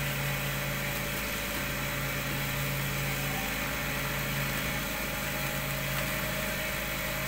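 Cotton candy machine with a gas-fired jumbo furnace running: a steady motor hum from the spinning head over an even hiss, likely from the gas burner.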